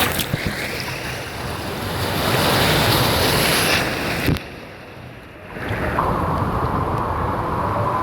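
Rushing, churning water of a fast water-park river rapids section around a rider's tube, with wind buffeting the microphone. A little after four seconds in the sound is briefly muffled for about a second and a half before the rushing returns.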